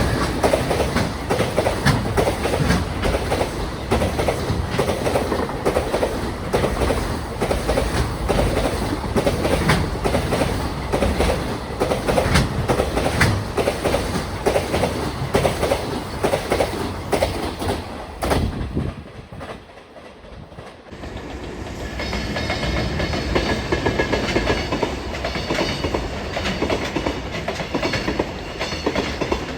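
Freight train passing close by, its wheels clattering rapidly over rail joints. The sound drops away briefly about two-thirds of the way through, then the clatter of a passing train builds again.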